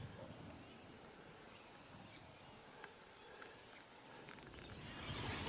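Steady, high-pitched insect chorus: a continuous shrill drone from many insects in rainforest vegetation.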